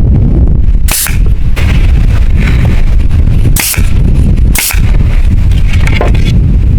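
Wind buffeting the microphone with a heavy low rumble, broken by three sharp knocks: about a second in, near the middle, and again a second later.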